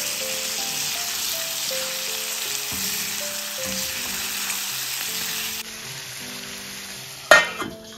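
Chicken and chopped tomato sizzling as they fry in a stainless steel kadhai, stirred with a wooden spatula; the sizzle drops away about five and a half seconds in. A sudden loud knock sounds near the end.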